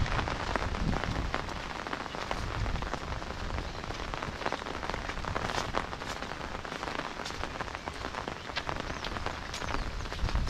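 Steady rain falling on a wet brick road and roadside plants, with many sharp individual drop hits ticking through it.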